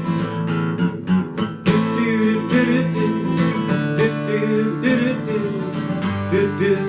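Acoustic guitar strummed in a steady, lively rhythm: the instrumental passage of an upbeat song, with a melody line moving over the chords.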